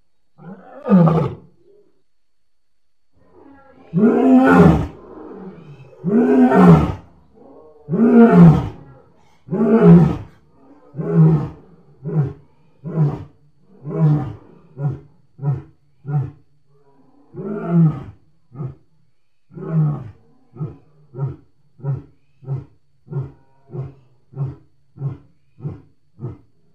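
Lion roaring bout: four long, loud roars about two seconds apart, then a long run of short grunting roars that come quicker and quieter, about one and a half a second by the end.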